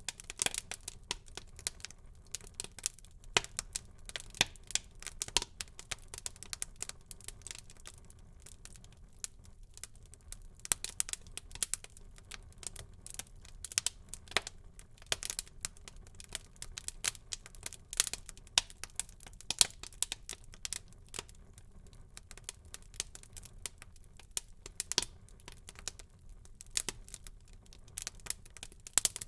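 Wood fire burning in a fireplace, crackling with many sharp irregular pops and snaps over a low steady hiss.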